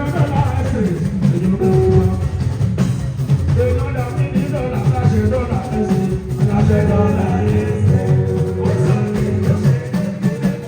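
Fuji band music played loud and continuously: a singing voice over drums and percussion.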